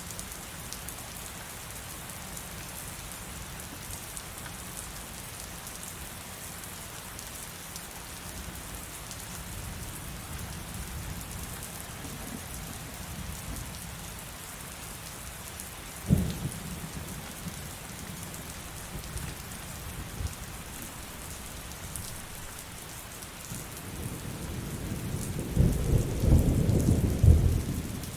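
Heavy rain falling steadily, with a sharp thunderclap about halfway through and a loud rolling rumble of thunder near the end.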